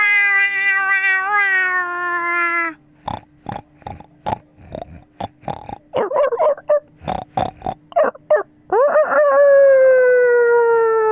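A person imitating animal calls with the voice: a long, drawn-out cat-like howl ends a few seconds in, followed by a run of short clicks and brief yelps. Then a second long howl begins and slowly falls in pitch.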